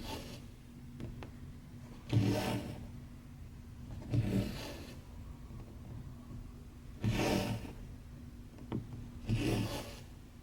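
Embroidery floss being drawn through cross-stitch fabric: four short swishing pulls a couple of seconds apart, with a few small needle clicks between them over a low steady hum.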